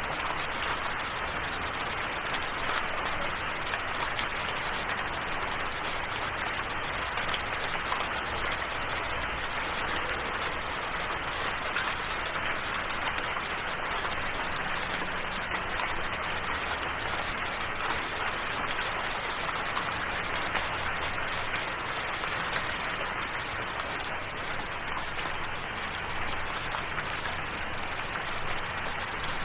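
Rain falling steadily, an even hiss of drops with no breaks or changes.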